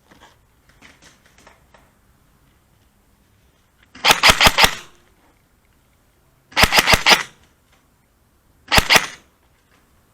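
Airsoft gun firing three short bursts of rapid shots, the first two about half a second long and the last shorter, near the end.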